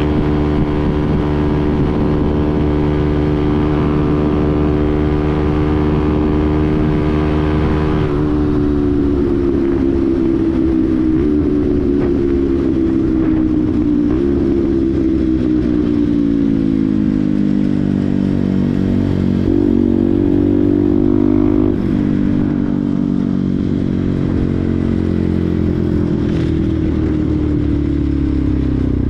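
Benelli TNT 125's single-cylinder engine under way, holding steady revs at first, then about eight seconds in the pitch drops and keeps falling in stages, with a short jump up about two-thirds through, as the bike slows.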